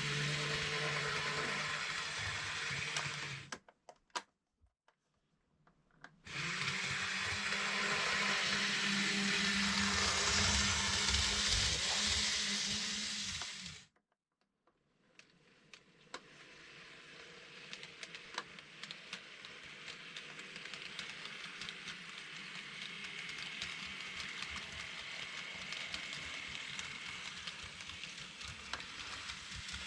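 N-gauge model train running on its track, its electric motor whirring loudly. The sound drops out briefly about four seconds in and again about fourteen seconds in, then returns quieter and slowly builds, with light clicks from the wheels on the track.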